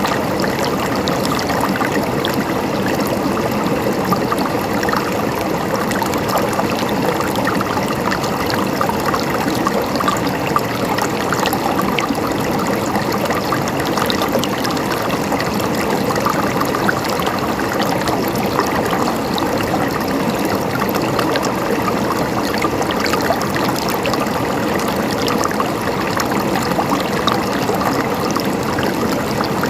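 Running water gurgling steadily, a constant flow full of small bubbling splashes.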